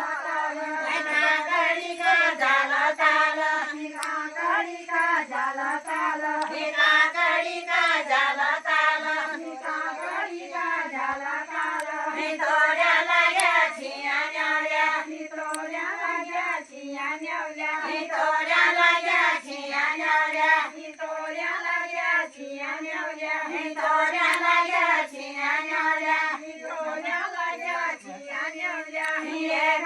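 A high voice singing a song with strong vibrato, in phrases that break every second or so.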